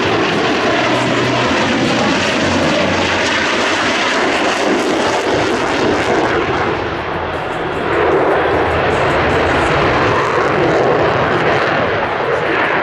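Airplane engine noise from an aircraft flying a display, a loud steady roar that eases slightly and swells again about eight seconds in.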